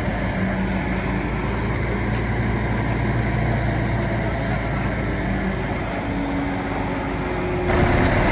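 Bulldozer's diesel engine running steadily, getting louder near the end.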